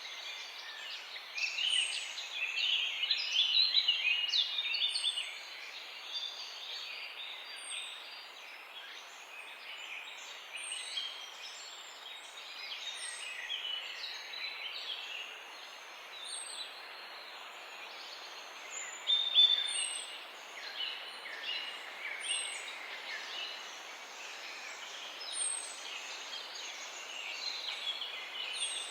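Morning bird chorus: several songbirds chirping and trilling over one another, over a steady background hiss, busiest in the first few seconds. A short, very high note repeats about every two seconds throughout.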